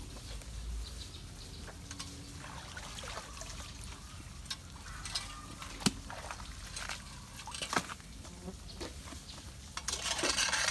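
Water trickling through clogged debris, with scattered sharp knocks and cracks and a louder splash about ten seconds in.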